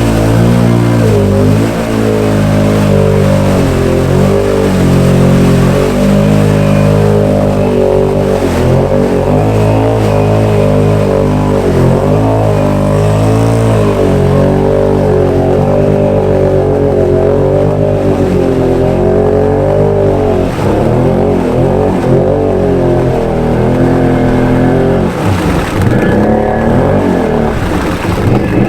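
Can-Am Outlander 650 XMR's V-twin engine held at high revs while the ATV ploughs through deep mud, its pitch wavering up and down as the throttle works and the load changes. Near the end the revs drop and then change.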